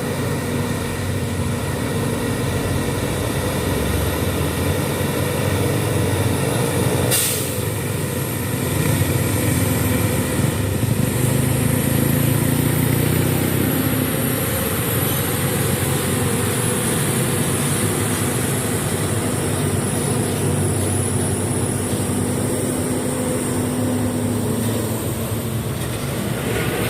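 Heavy truck's diesel engine running steadily under load on a steep uphill climb. A brief, sharp burst of noise cuts across it about seven seconds in.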